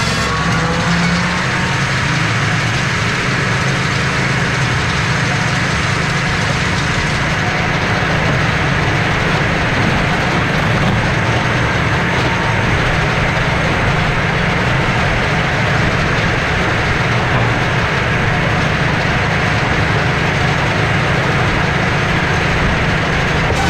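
Eastonmade 48C firewood processor running steadily, its engine and hydraulics working as wood is fed through.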